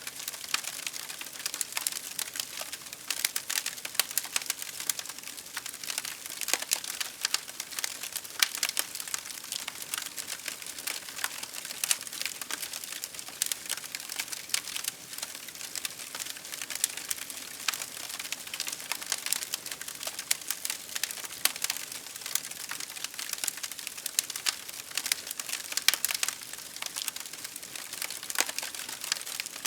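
Wood fire crackling: many irregular sharp snaps and pops over a soft steady hiss.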